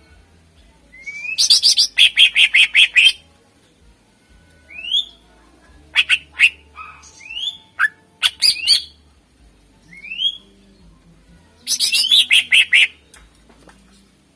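Green leafbird (cucak ijo) singing: short upward-sliding whistles broken by two fast, loud runs of repeated notes, about six a second, near the start and again near the end.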